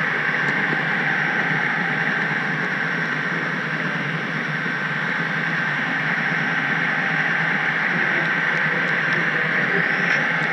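HO-scale model train rolling along the track, a steady rumbling hiss of wheels on rail with a thin steady whine and a few faint clicks.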